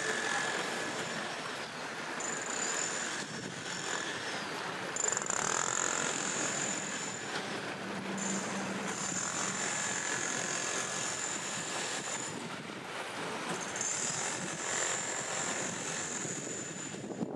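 Steady rush of river water flowing around concrete blocks in the current. A thin, high whine comes and goes over it in stretches of a second or two.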